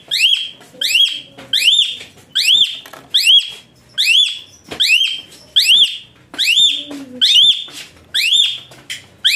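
A bird calling over and over: a loud whistled note that slides up and then holds level, repeated evenly about every 0.8 seconds, around a dozen times.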